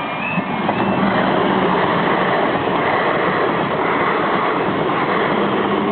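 A train passing over the level crossing: a loud, steady rush of wheel and rail noise that swells about a second in and drowns out the crossing's warning alarm.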